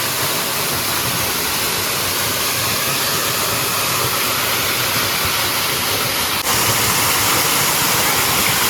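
Waterfall pouring steadily, an even rush of falling water. There is a momentary break about six and a half seconds in, after which it is slightly louder.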